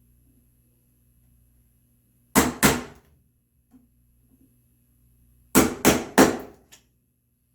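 Mallet striking a chisel chopping a mortise into red oak: two blows, a pause, then three quick blows.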